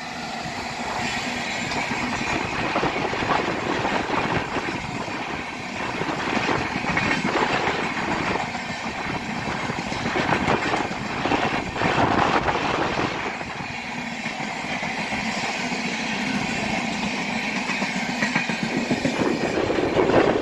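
Express passenger train running past on Indian Railways track, its wheels clicking over the rail joints amid the steady noise of the moving carriages.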